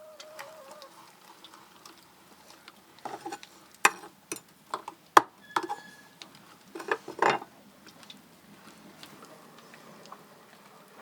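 Irregular knocks and clicks, bunched together from about three to seven and a half seconds in, with quieter scattered ticks around them.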